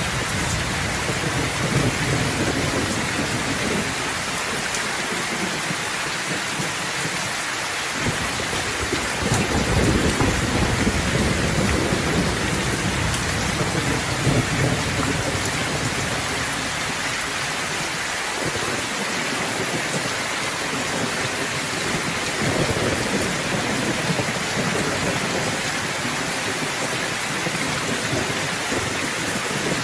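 Steady heavy rain, with low thunder rumbling in the background. The thunder swells at the start, again about nine seconds in, and once more about twenty-two seconds in.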